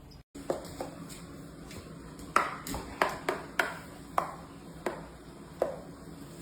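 An irregular series of about ten light, sharp pings or clinks, each with a short ring.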